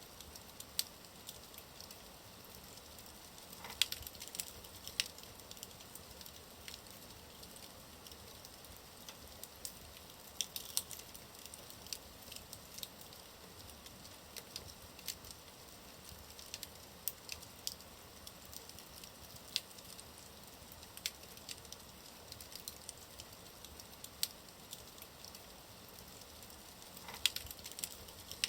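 Wood fire burning in a fireplace: a steady low hiss with frequent sharp crackles and pops, a few louder cracks scattered through.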